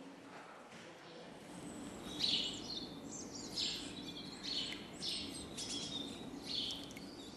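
Small songbirds singing outdoors: a string of short, high chirping phrases about once a second, starting about two seconds in, over a steady low background hum.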